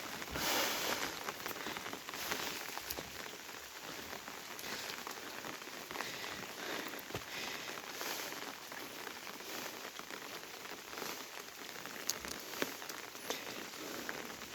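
Steady rain falling, an even hiss dotted with many small sharp ticks of drops, a few of them louder about twelve seconds in.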